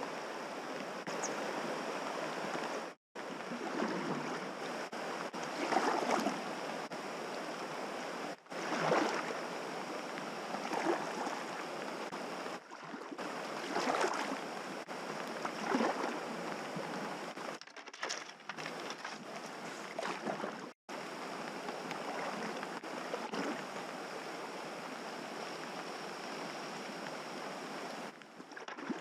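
River water running around a packraft, a steady rushing with louder splashes every few seconds.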